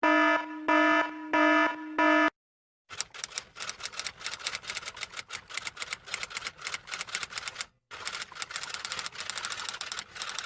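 Four short electronic beeps, evenly spaced, then after a brief pause a long run of rapid, irregular typing clicks with one short break.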